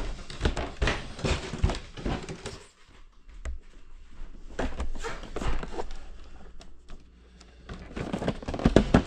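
Irregular plastic clicks and knocks from a Roomba robot vacuum's dust bin being handled and emptied, with two short pauses and a louder cluster of knocks near the end.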